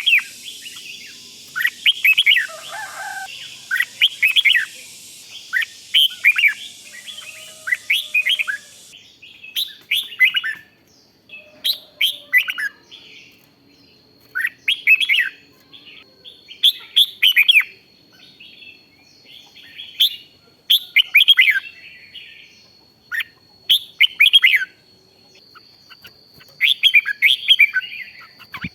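Red-whiskered bulbul singing: short, bright, chirpy phrases of quick notes, repeated every second or two.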